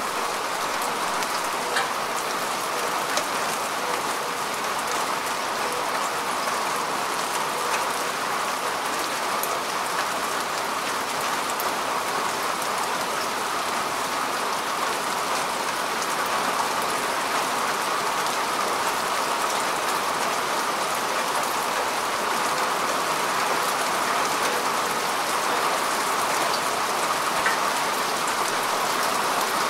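Steady rain falling on grass and earth, an even hiss with scattered drop ticks.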